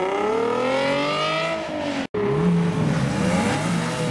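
A high-performance sports car engine revving up as it accelerates away, its pitch climbing for about a second and a half and then easing off. After a sudden brief cut about halfway through, a lower, wavering engine note follows.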